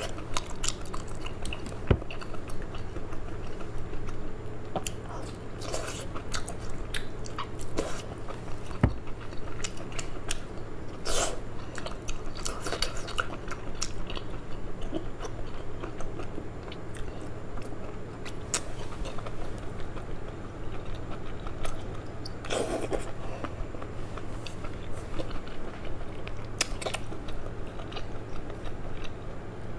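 Close-up eating sounds of whole octopus in thick sauce: wet chewing, biting and mouth smacks in an irregular run of short clicks, over a steady low hum.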